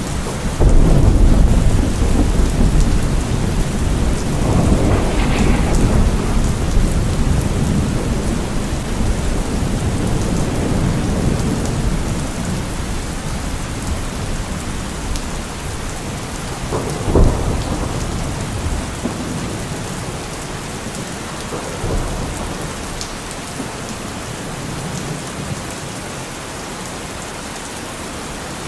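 Steady rain with rolling thunder: a loud low rumble breaks about a second in and rolls on for several seconds, a sharper clap of thunder comes about two-thirds of the way through, and a fainter rumble follows, with the rain hiss going on underneath.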